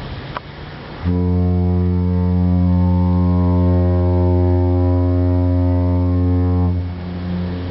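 Ship's horn sounding one long, low blast of about five and a half seconds, starting about a second in and stopping abruptly, with a short echo trailing off.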